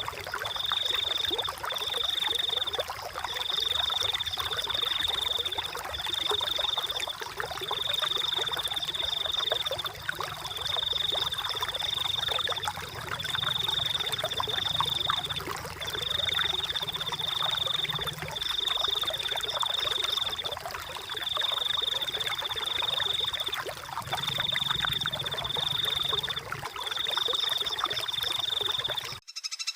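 A high, steady trilling animal call repeating in bouts of about a second with short gaps, over the continuous rush of flowing water. Everything cuts off abruptly near the end.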